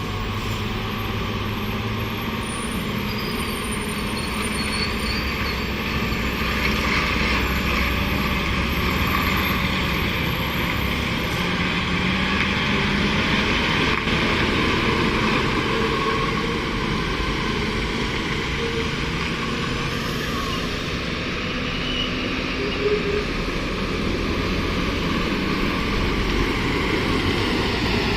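A heavy 14-wheeler truck's diesel engine running steadily on the road, with tyre and road noise. A brief sharp sound cuts in once late on.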